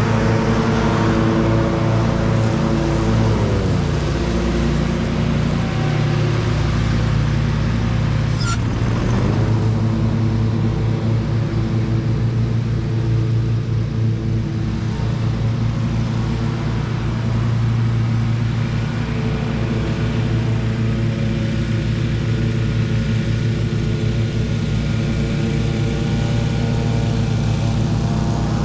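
An engine running steadily; its speed drops about three seconds in and comes back up about nine seconds in, with a brief click just before.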